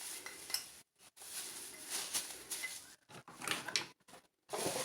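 Handling noises: rustling and light clicks of plastic containers and packaging being moved and checked, with several brief dropouts to silence.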